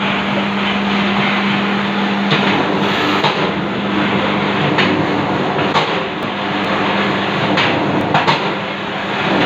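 K-45-21 cable insulation stripping machine running: a steady electric-motor hum under a continuous mechanical rattle, with a few sharp clicks and knocks along the way.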